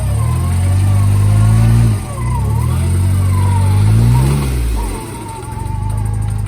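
An off-road vehicle's engine revs up under load twice, its pitch climbing and then falling back each time, then runs at a steady lower speed near the end.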